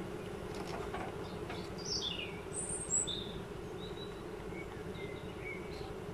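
A songbird chirping, a run of short whistled notes, some sliding down in pitch, the brightest about three seconds in, over a steady low hum.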